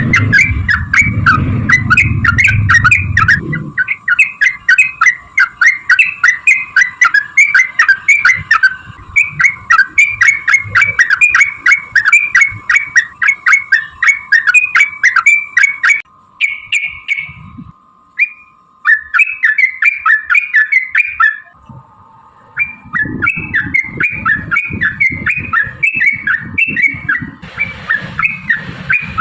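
Yellow-vented bulbul (trucukan) calling in a long rapid chattering run, several sharp notes a second, breaking off briefly twice past the middle before resuming.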